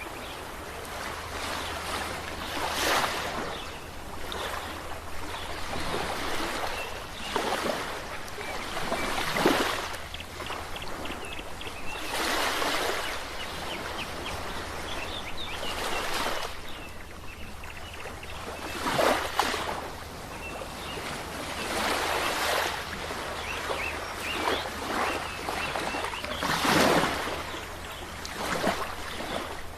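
Ocean waves breaking and washing up the shore in repeated surges, one every few seconds, some much louder than others, over a continuous wash of surf.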